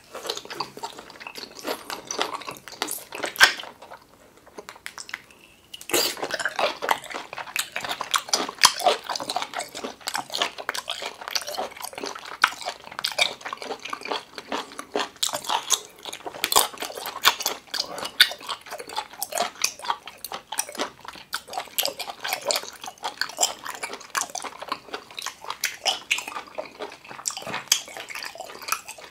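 Close-up wet chewing and biting of large cooked octopus tentacle: dense, irregular squishy smacks, with a short lull about four seconds in.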